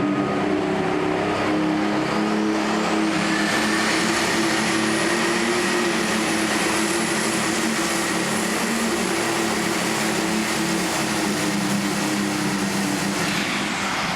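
Super Stock pulling tractor's turbocharged engine running hard and steady under load during a pull. A high whine from the turbochargers rises about two to three seconds in, holds, and falls away near the end.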